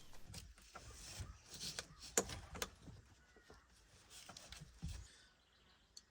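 Faint, scattered clicks and light knocks from spark plug wires being pushed onto a new distributor cap, with a soft hiss underneath; it falls almost silent about five seconds in.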